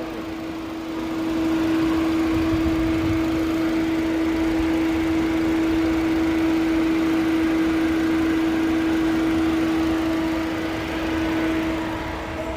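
Steady machine hum with one constant tone over a rushing noise: a motor or fan running at constant speed.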